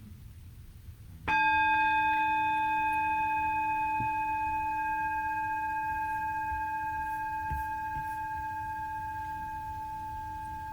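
Meditation bell struck once about a second in, ringing on with several clear tones and slowly fading, marking the end of the meditation practice.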